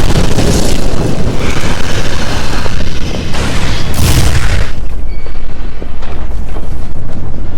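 Sound effect of a nuclear explosion: a loud, deep rumbling blast, with a second sharp blast about four seconds in, after which a lower rumble carries on.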